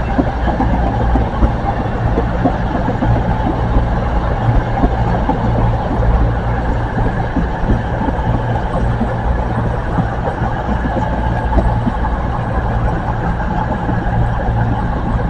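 Diesel train engines idling steadily at the platform, a low even hum that holds throughout.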